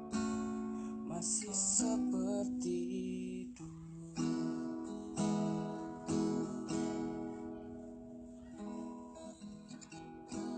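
Acoustic guitar strumming chords, the instrumental close of a pop song after the last sung line, fading toward the end.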